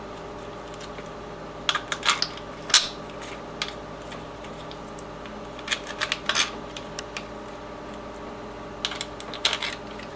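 Short metallic clinks and clicks of wrenches and bolts as an engine cooling fan is fitted, in small clusters, over a steady low hum in the background.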